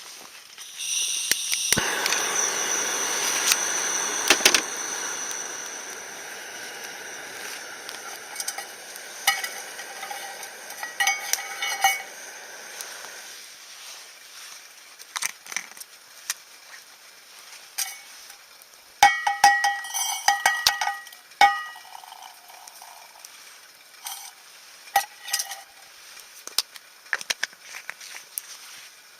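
Food sizzling in a metal pan, starting about a second in and slowly dying down, with metal clinks and short rings from cookware and utensils, heaviest in two spells near the middle.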